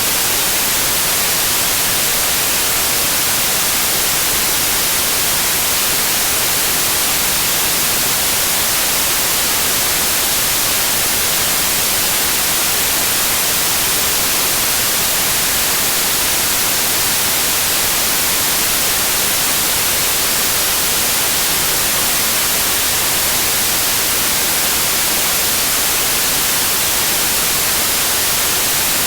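Steady white noise: a constant, even hiss, brightest in the treble, with no changes or events.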